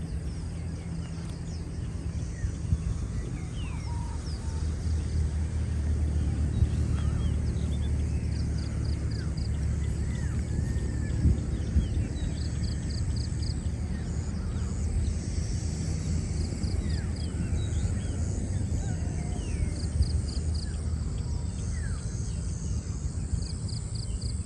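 Outdoor ambience of several birds chirping and calling at scattered moments, including short rapid trills repeated every few seconds, over a steady low rumble.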